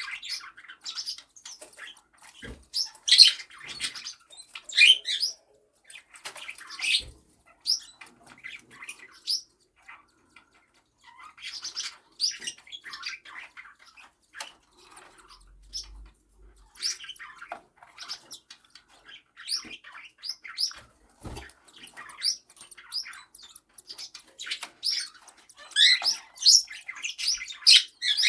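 Cockatiels chirping: short, high chirps on and off, busiest near the end, with a few soft knocks in between.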